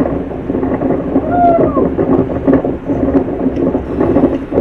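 Blizzard wind buffeting the microphone over a steady low engine hum. About a second in, a short falling squeal cuts through.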